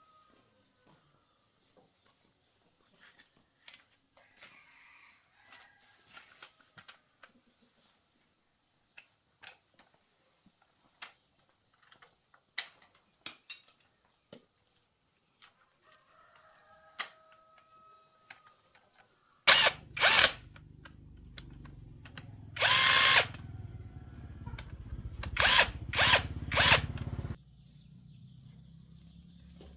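Scattered small clicks and taps of hand tools, with a rooster crowing at the start and again about halfway. About two-thirds of the way in a power tool starts and runs over a steady low hum, letting out about six short, harsh bursts, then drops to a fainter hum.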